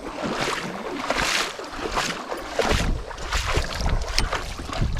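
Water sloshing and splashing in repeated swishes, with wind rumbling on the microphone from a little past halfway.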